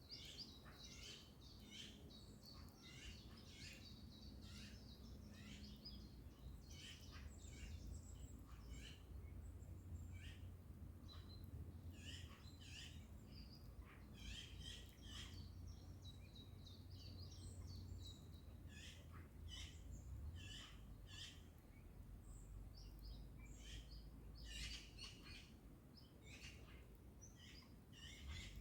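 Faint chorus of wild birds chirping and singing, many short calls overlapping throughout, over a steady low rumble.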